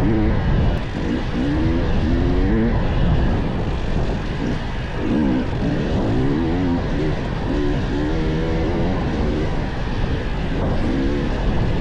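Dirt bike engine running on a trail ride, its pitch rising and falling again and again as the throttle is opened and closed, over a constant rush of noise.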